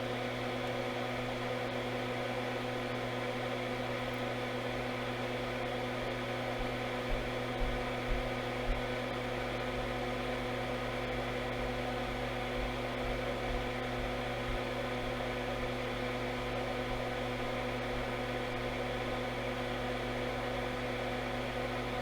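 Steady electrical hum with a faint whir from bench equipment, with four soft taps about seven to nine seconds in.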